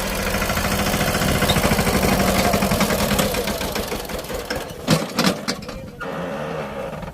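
Mini tractor's engine running with a rapid, even pulse, fading about four seconds in and dying away near six seconds, with a couple of sharp knocks about five seconds in.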